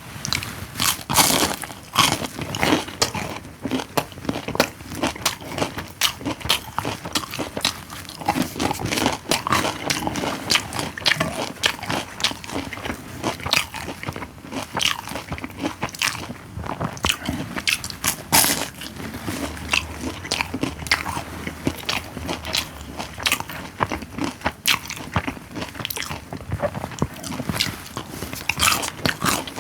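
Close-miked eating sounds: a person chewing and biting food, with many irregular sharp mouth clicks.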